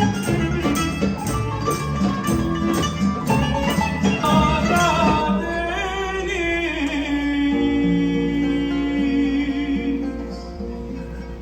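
Band music in a passage without words from a Turkish pop song, with a steady beat for the first five seconds or so, then held notes and a melody, getting quieter near the end.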